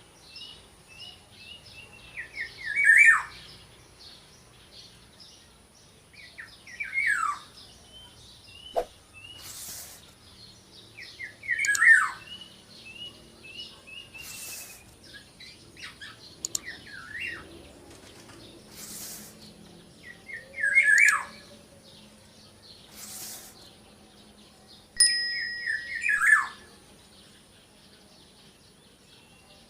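Black-naped oriole (kepodang) giving five loud calls, each sweeping down in pitch and spaced several seconds apart, with quieter short chirps repeated between them.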